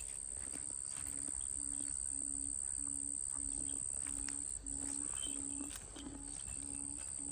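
Insects, crickets or similar, droning steadily at a high pitch, with a low tone pulsing about twice a second underneath.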